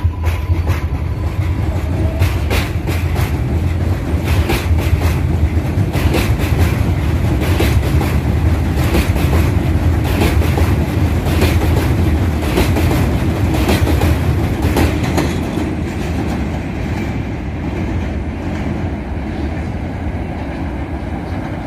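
New York City Subway R188 train on the 7 line running through the station, its wheels clattering over the rail joints in quick clicks over a heavy rumble. The noise eases off over the last few seconds as the train moves away.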